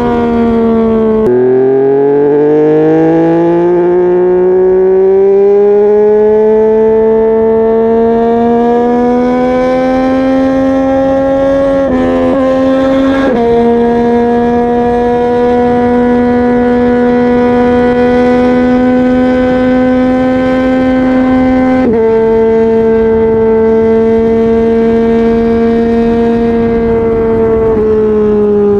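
Yamaha MT-09's inline-three engine and exhaust under way. The engine note drops sharply about a second in, then climbs slowly for about ten seconds, breaks briefly around twelve seconds, and holds a steady note for most of the rest.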